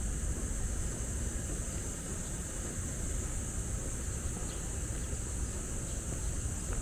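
Outdoor city-park ambience: a steady low rumble of distant traffic under a continuous high-pitched insect drone.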